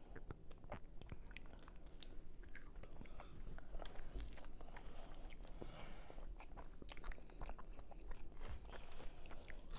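Close-up chewing and biting: wet mouth clicks and soft crunches of someone eating a burrito, irregular, with a brief rustle about six seconds in.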